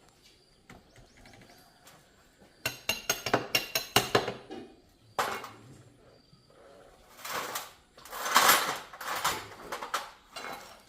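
Metal tools and parts clinking and rattling as they are handled: first a quick run of light clinks, then several longer rattles.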